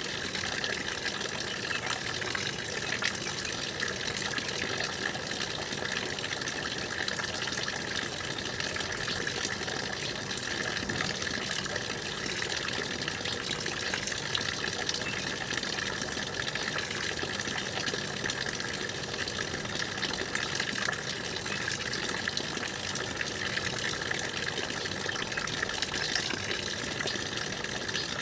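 Stream water running steadily, an even rushing and gurgling with no breaks.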